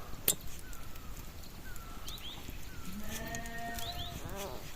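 A sheep bleats once, a long call of about a second starting about three seconds in, with faint short chirps before it.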